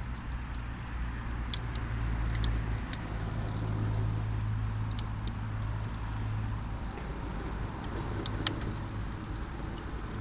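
Campfire crackling, with scattered sharp pops and snaps, the loudest about eight and a half seconds in, over a steady low hum.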